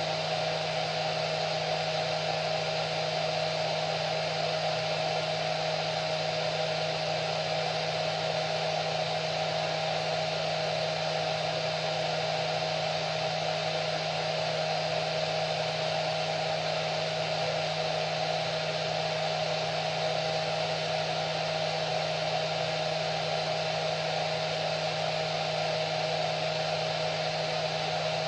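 Hair dryer running steadily: an even blowing hiss with a constant low motor hum and a steady whine.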